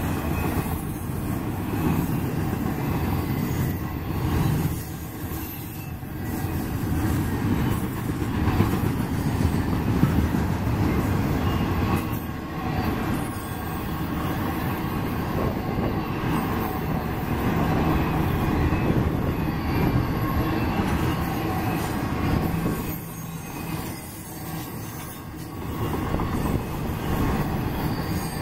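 Double-stack intermodal freight cars rolling past at speed, their steel wheels rumbling steadily on the rails, the sound dipping briefly twice as the cars go by.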